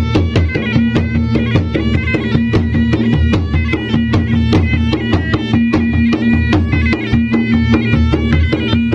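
Traditional Bugis-Makassar gendang drums played in fast, dense strokes, with a reedy wind instrument playing a melody in quick steps over a steady low tone.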